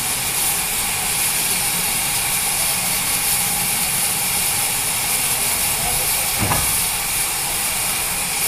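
Steam locomotive letting off steam in a steady hiss, with one brief low thump about six and a half seconds in.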